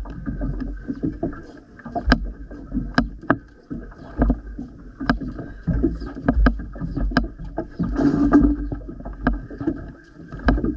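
Small fishing boat at sea: sharp, irregular knocks and thuds on the boat, about one every second, over a steady low rumble.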